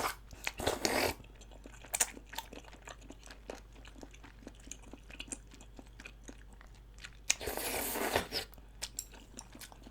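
A person chewing close to the microphone, with wet open-mouthed smacking and many small crunchy clicks, and a longer louder stretch of eating noise near the end.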